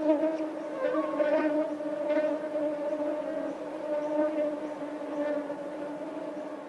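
Mosquito wings buzzing in flight: a steady whine with overtones that wavers slightly in pitch and grows quieter near the end.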